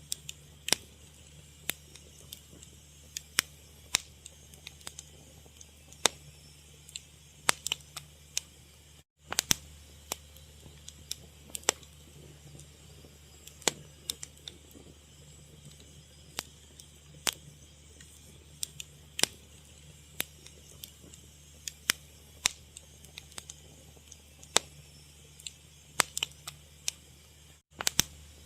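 Wood fire crackling: irregular sharp pops and snaps over a steady low rumble. The sound cuts out for a split second twice.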